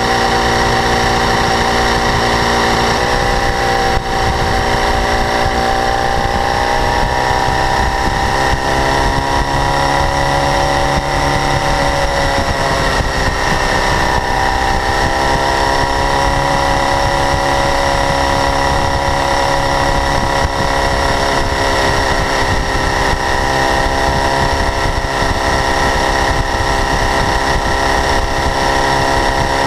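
2012 BMW S1000RR's inline-four engine running, its revs drifting up slightly and dipping once, with a high-pitched ticking that has grown steadily louder since new; the owner suspects valve clearance or the exhaust interference-pipe flaps.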